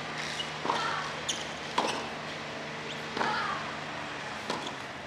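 Tennis balls being struck by rackets and bouncing on a court: several sharp pops at irregular spacing, over a steady low hum.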